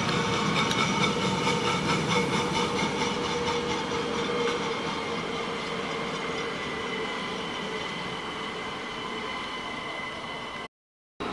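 Passenger train running past: wheels rumbling, with regular clicks over rail joints in the first few seconds and a steady high whine, slowly fading as it moves away. The sound cuts off abruptly near the end.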